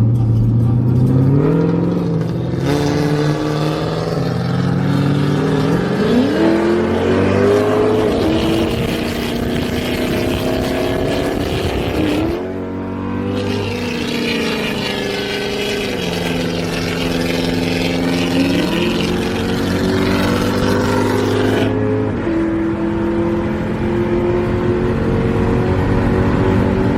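Muffler-deleted 5.0 V8 running loud under hard acceleration. The engine note climbs in pitch and drops back at several gear changes.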